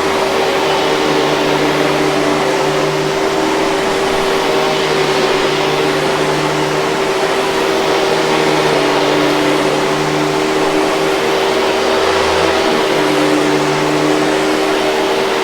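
Hoover 5000 Series canister vacuum cleaner running steadily: a constant motor hum over a rush of air.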